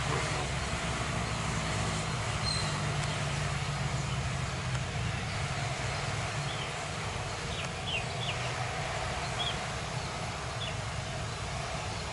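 Steady low engine rumble, with a few short high chirps from birds scattered through it.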